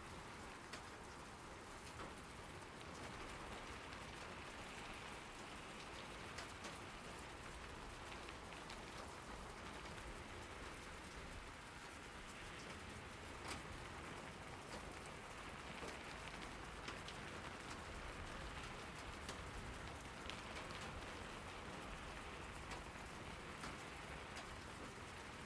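Steady rain falling, an even hiss with many separate drops ticking on a hard surface close by.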